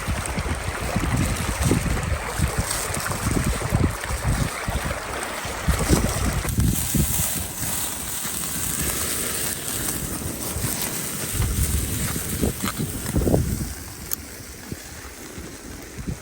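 Wind buffeting the microphone: irregular low gusts over a steady rushing noise, easing off near the end.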